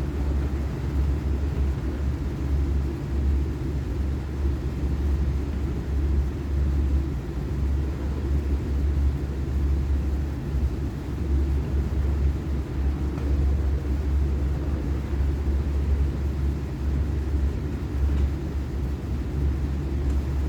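A steady low rumble, unchanging for the whole stretch.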